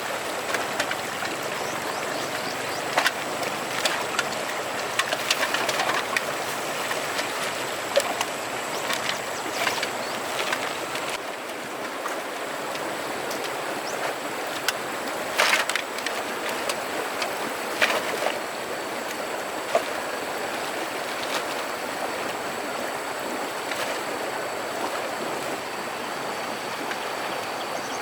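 Steady rush of flowing river water, with scattered sharp knocks and clatters over it.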